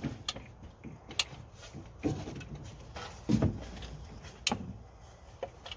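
Scattered sharp clicks and a few soft knocks as spark plug wires are handled and pushed onto the distributor cap terminals.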